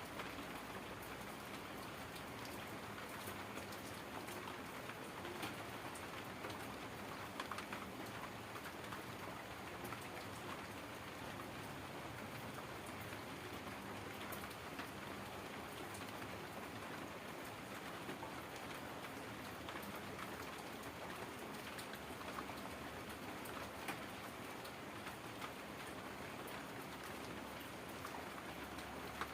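Heavy rain falling steadily: a constant hiss of rain with scattered ticks of individual drops hitting a surface.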